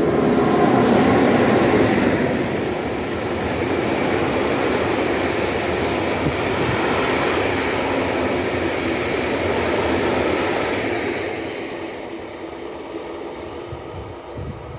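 Freight train of sand wagons, hauled by two ÖBB class 1144 electric locomotives, rolling past with a steady rumble of wheels on rails. The sound fades away over the last few seconds as the train moves off.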